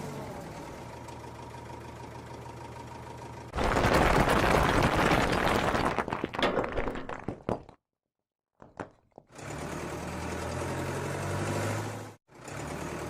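Cartoon wheel loader's engine sound effect running steadily, broken by a loud rushing noise of about four seconds from roughly three and a half seconds in. Then comes a short near-silence with a few clicks, and the engine hum picks up again.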